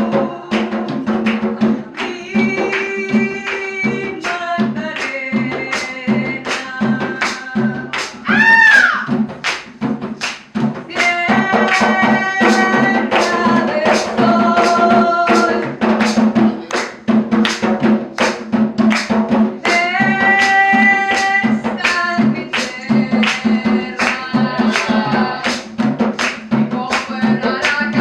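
A live cumbia band playing: drums and hand percussion keep an even beat under a melody of held notes, with one note arching up and back down about a third of the way through.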